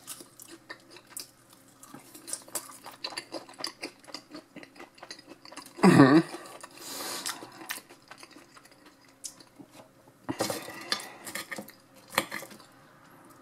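Close-up chewing of soft fries with fried onions and garlic, with small clicks and scrapes of a metal fork on a ceramic plate that get busier near the end as the fork picks up more fries. A short vocal sound about six seconds in is the loudest moment.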